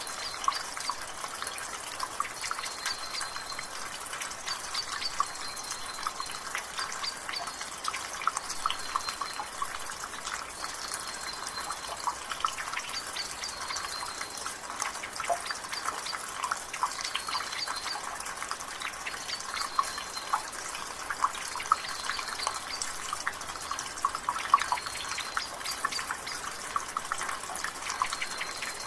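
Water dripping and trickling steadily from a rain gutter, dense irregular drips over a soft rain-like hiss. A bird repeats a short, high call every second or two.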